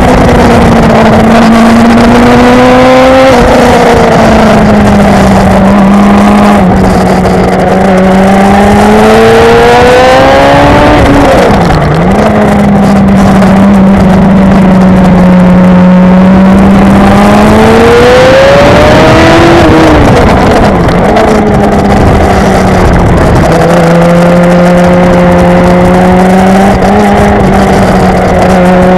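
Yamaha sport motorcycle engine at high revs, heard from on board over rushing wind. The pitch climbs steadily and then drops sharply, again and again: revving out through the gears, with shifts and braking for corners, about five times over the stretch.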